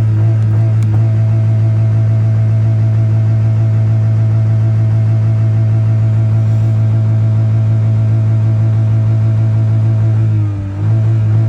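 Car engine held at high revs by the accelerator pedal, running at a steady pitch, then dropping briefly as the pedal eases off about ten seconds in and rising straight back up.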